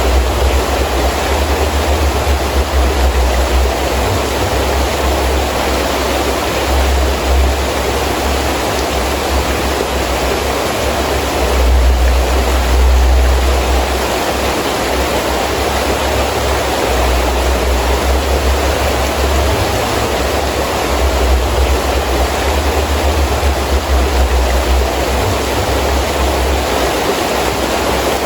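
Heavy rain falling steadily with wind, a deep rumble of gusts swelling and fading underneath, loudest about halfway through.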